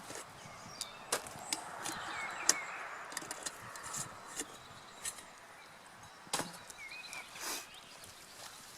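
Campfire crackling, with irregular sharp pops of burning wood, the loudest about two and a half seconds in and again near six and a half seconds.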